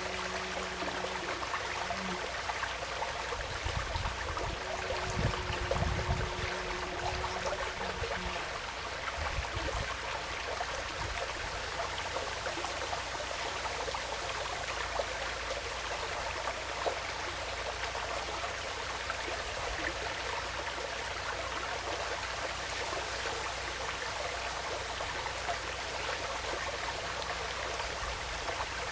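Small woodland stream flowing steadily, a constant even rush of water. During the first eight seconds or so a faint steady hum and a few low rumbles sit beneath it.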